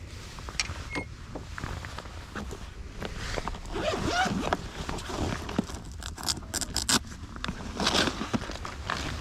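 Rustling and clicking handling noises, with a quick run of sharp clicks past the middle, over a steady low rumble.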